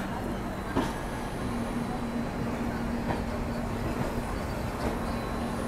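Duronto Express passenger coach rolling slowly out of the station, heard from its open doorway: a steady rumble of wheels on the rails with a faint hum and a few faint clicks.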